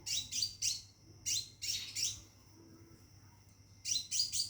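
Caged scarlet minivet (sepah raja) singing: bursts of sharp, high chirps, a quick cluster at the start, two more around a second or two in and another cluster near the end, with a thin high whistle held between them. The call is the male calling for a female.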